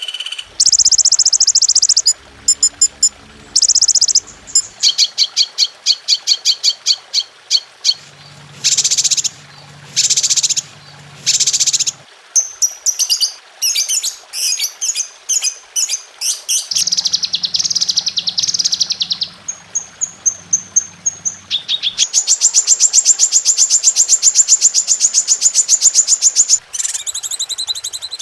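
A medley of recorded songbird songs: bursts of high chirps, rapid repeated notes and trills that switch abruptly to a different song every few seconds, with a long, fast, even trill near the end. It is a 'masteran' bird-song training recording.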